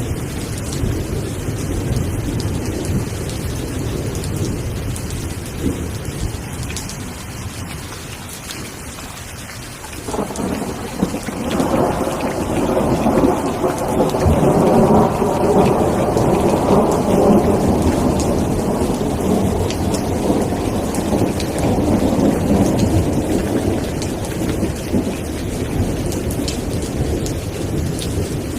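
Steady rain falling, with a long roll of thunder that begins suddenly about a third of the way in, grows louder, and slowly dies away over some fifteen seconds.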